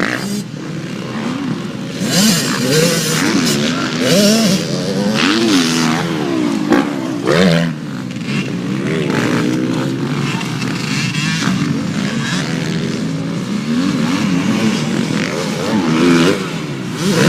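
Several motocross bike engines revving up and down, their rising and falling notes overlapping.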